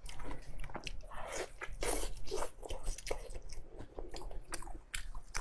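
Close-miked biting and chewing of braised pork: a quick, uneven run of mouth clicks and smacks.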